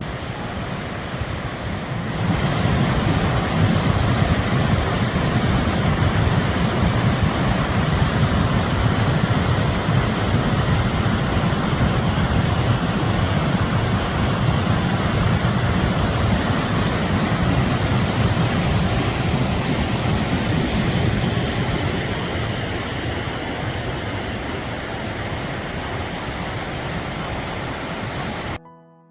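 Rushing water of a fast-flowing river swollen by heavy rain, a steady, full roar of noise. It swells about two seconds in, eases a little in the last third, and cuts off abruptly just before the end.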